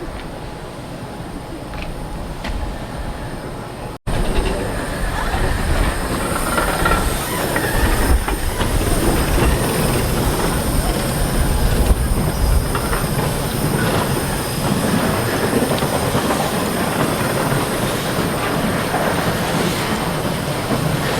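Snowdon Mountain Railway steam rack train moving off, with wheels squealing and clattering on the track. It gets louder from about four seconds in.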